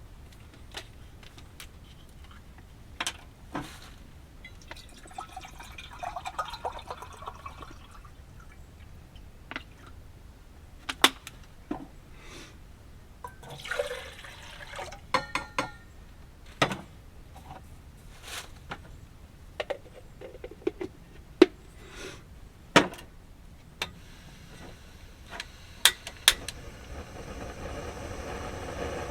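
Coffee being made with camp gear: scattered clicks and knocks of pots, lids and containers being handled, with water pouring twice. Near the end a steady hum starts and builds in level.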